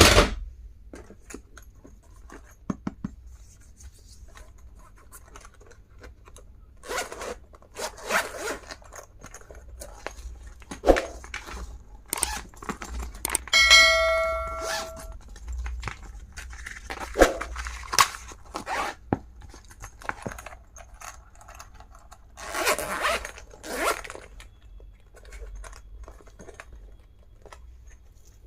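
Stationery and its packaging being unpacked and handled: a string of scrapes, rustles and zip-like rasps, with a short ringing metallic tone about halfway through.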